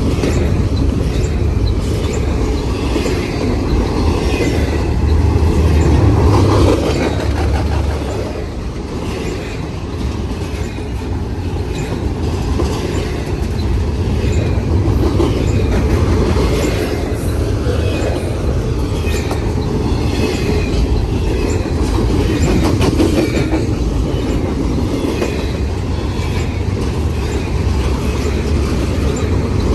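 Freight train cars rolling past, steel wheels clacking over the rail joints, with light squealing from the wheels on the rail.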